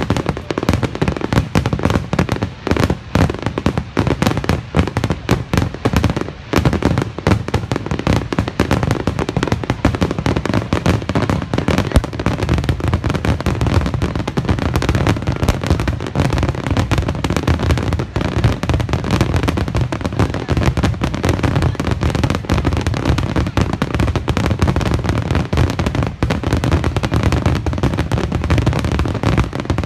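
Fireworks display: aerial shells bursting in quick, overlapping bangs. About six seconds in, the barrage thickens into an almost unbroken run of explosions.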